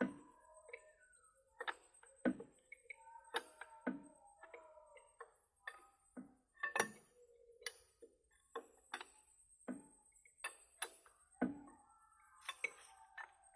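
Irregular sharp taps and clicks of hand work on metal, roughly one or two a second, as a truck wheel cover is fitted, with faint ringing tones between them.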